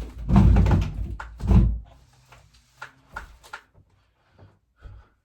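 Heavy thumps and rustling from movement close to the microphone in the first two seconds, then a scattering of light knocks and clicks.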